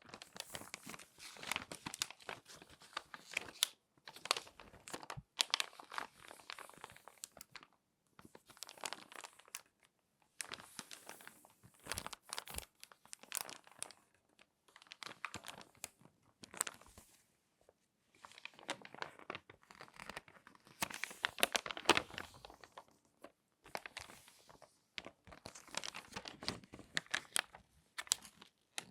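Crinkly glossy magazine pages being folded and handled close up, in repeated bouts of sharp paper crackling a second or two long with short pauses between.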